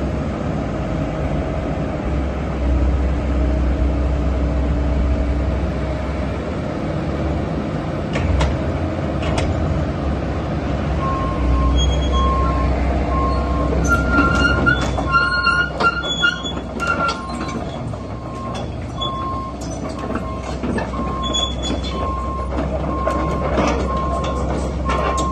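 Komatsu PC138US-LC tracked excavator running, its diesel engine making a steady low hum, with the squeal and clank of steel tracks. About eleven seconds in, a travel alarm starts beeping regularly, a bit more than once a second, and keeps going.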